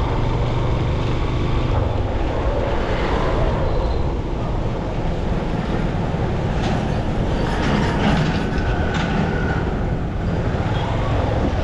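Motorcycle running on the move through city traffic: a steady rumble of engine and road noise with no break.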